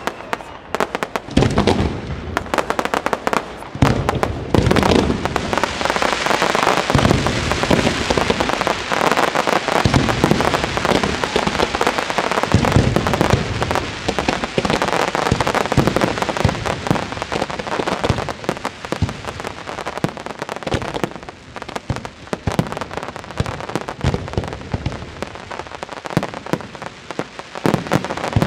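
Fireworks display: a dense run of aerial shells bursting, with deep booms every second or two over continuous crackling.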